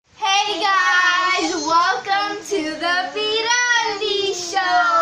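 A child singing alone, with long held and sliding notes and no instruments behind.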